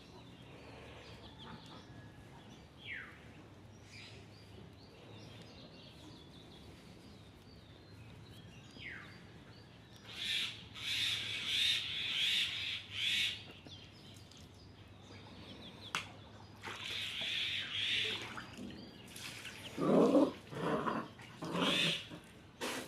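Puppies play-fighting, giving short yelps in bursts, the loudest cluster near the end, with birds chirping in the background.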